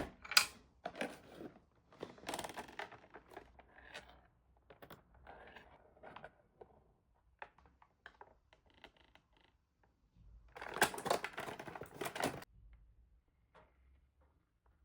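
Toy packaging being handled and opened: irregular small clicks and rustles of plastic and cardboard, with a louder run of rustling and tearing about two-thirds of the way through.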